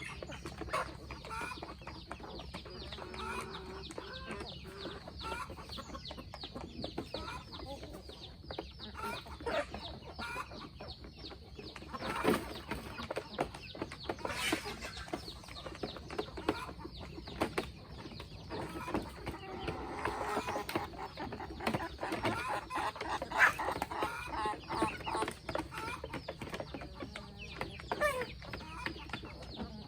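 A flock of chickens clucking, short calls overlapping, with many small taps and clicks throughout and a couple of sharper knocks about halfway through.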